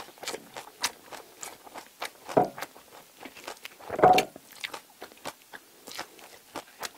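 Close-miked chewing and crunching of crisp baguette, a quick irregular run of small crunches and wet mouth sounds. Two louder bites come about two and a half and four seconds in.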